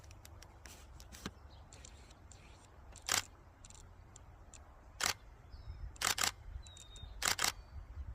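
Camera shutter firing: a few sharp clicks, single ones about three and five seconds in, then quick pairs near six and seven seconds, over a low steady outdoor rumble.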